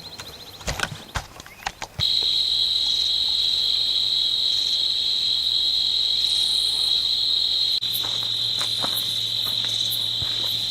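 Night insects trilling in a loud, steady chorus that comes in abruptly about two seconds in, with a low hum underneath. A few light clicks and rustles come before it.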